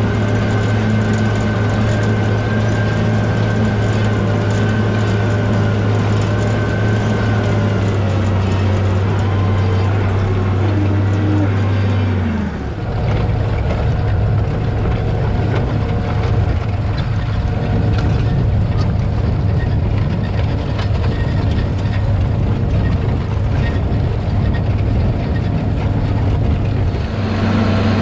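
Case IH Steiger 9370's six-cylinder turbocharged Cummins N14 diesel running steadily. About 12 seconds in its pitch falls and the sound turns rougher, with a steady hum that holds until the earlier steady note returns near the end.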